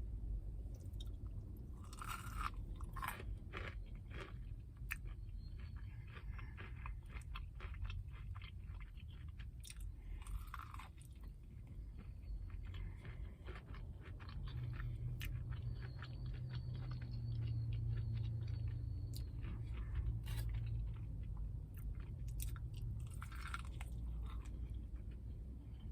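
Close-miked chewing and crunching of a hand-breaded fried chicken sandwich, with many short crisp clicks from the mouth. A low hum rises under it for several seconds past the middle.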